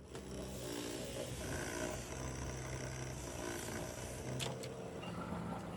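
Factory machinery running with a steady low hum and a sharp click about four and a half seconds in.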